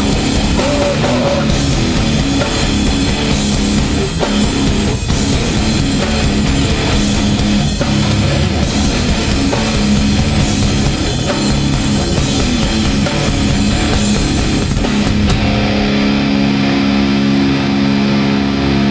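Hardcore band playing live with distorted electric guitars, bass and drum kit. Near the end the drums and cymbals stop and held guitar chords ring out.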